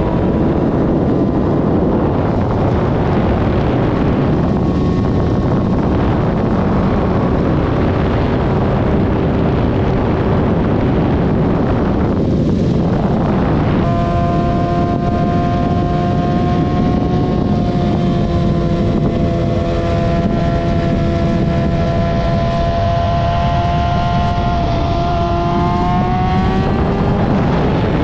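Vehicle engine running under heavy wind and road noise. About halfway through, a stronger set of steady engine tones comes in, and these climb in pitch near the end as the engine revs up.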